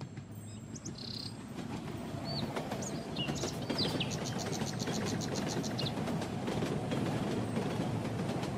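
A cartoon train running along the track, its rumble growing louder over the first few seconds as it comes near and then holding steady. Birds chirp over it, with a quick run of chirps about four seconds in.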